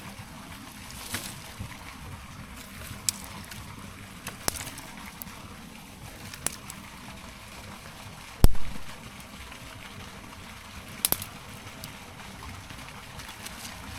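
Firewood cracking and snapping at irregular intervals over a low steady hiss, with one heavy thump of wood about eight and a half seconds in.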